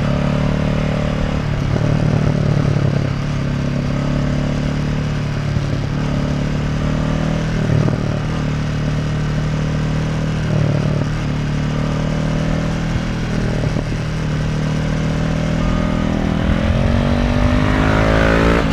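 Honda CB500F parallel-twin engine through an SC Project Conic titanium slip-on exhaust, running at a fairly steady low pitch with small throttle changes. Near the end it rises in pitch as the bike accelerates.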